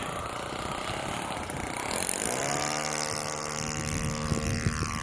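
Ugly Stick RC model airplane engine running. About two seconds in it is throttled up to a steady high-pitched whine, and near the end its pitch drops.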